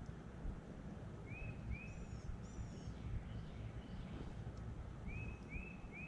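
Birds calling outdoors: two short rising chirps, then two pairs of high thin notes, then three more short rising chirps near the end, over a steady low background rumble.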